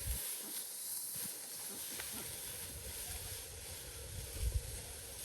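Wind buffeting the microphone in gusts, over a steady hiss, with a few faint ticks.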